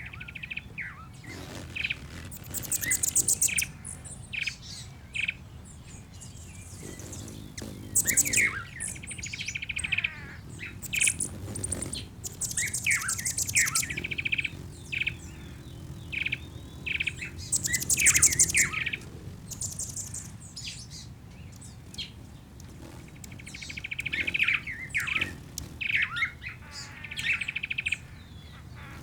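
Birdsong ambience: several birds chirping and calling, with repeated very high, fast buzzy trills and shorter chirps, over a steady low rumble.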